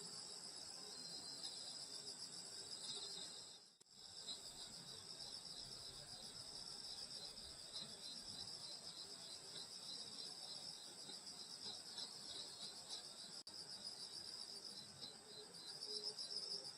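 A chorus of night insects, crickets and other grass insects, chirring steadily in several high bands, with a quicker run of short repeated chirps beneath them. The sound dips out briefly about four seconds in.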